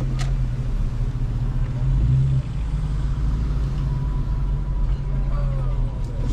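Car engine and road noise heard from inside the cabin while driving, a steady low drone that swells briefly about two seconds in. A single sharp click sounds just after the start.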